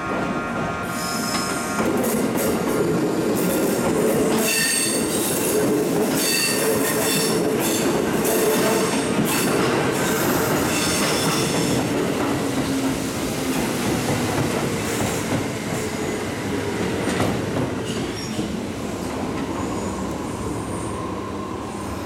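Kintetsu electric train running alongside the platform, its wheels squealing on the curved track and clicking over rail joints. The noise swells about two seconds in, the squeal is strongest in the middle, and it slowly fades near the end.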